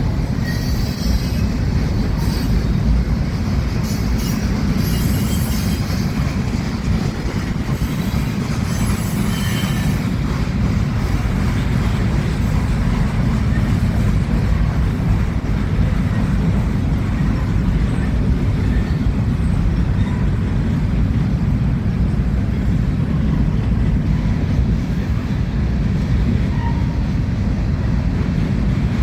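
Freight cars of a manifest train rolling past with a steady low rumble of steel wheels on rail. High-pitched wheel squeal comes and goes during the first ten seconds or so.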